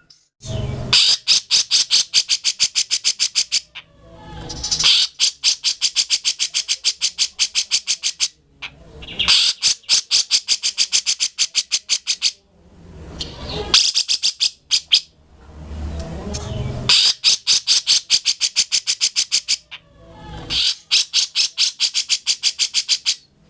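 Grey-cheeked bulbul (cucak jenggot) singing steadily in six bouts of rapid, evenly repeated sharp notes, several notes a second. Each bout lasts two to three seconds, with short pauses between.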